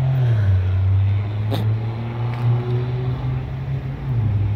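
A car engine running with a steady low hum that drops in pitch shortly after the start and again near the end, with a single sharp click about a second and a half in.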